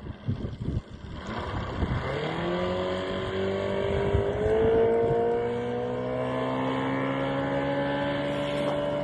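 Sealiner motorboat's engine speeding up: its pitch climbs from about two seconds in, then holds steady at running speed. A few low thumps come in the first second.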